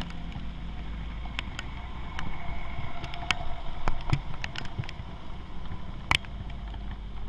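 Motorcycle riding in the rain: a steady low rumble of engine and wind, with scattered sharp ticks of raindrops striking the rider's gear. A brief hiss, like tyre spray on the wet road, rises and fades around the middle.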